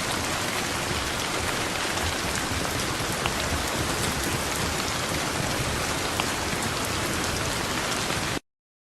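Steady heavy rain pouring onto a surface, a dense hiss dotted with sharp drop ticks; it cuts off abruptly into silence near the end.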